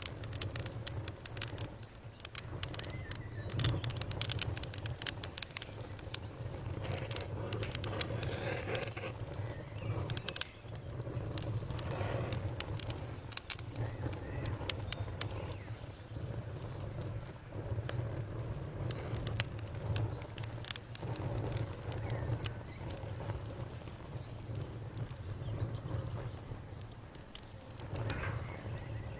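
Wood fire crackling with frequent sharp pops over a low steady rumble, with birds calling and a faint steady cricket trill in the later part.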